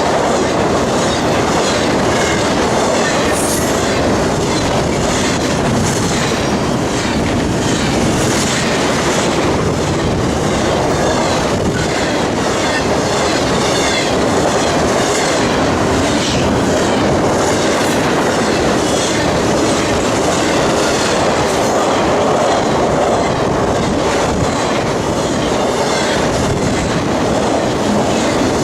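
Railroad cars rolling steadily past on the CSX main line, wheels clacking over the rail joints.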